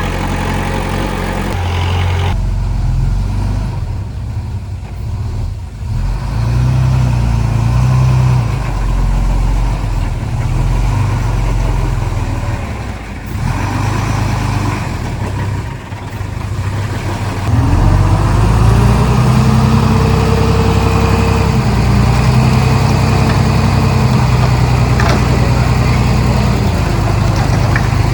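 Komatsu D31P bulldozer's diesel engine running under varying load, its pitch and level shifting. About two-thirds of the way in it revs up and holds louder and higher.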